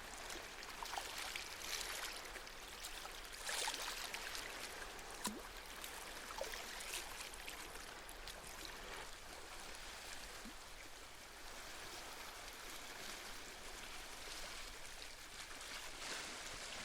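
Gentle sea waves washing and lapping on the shore, a soft watery hiss that swells and eases, with a stronger wash a few seconds in.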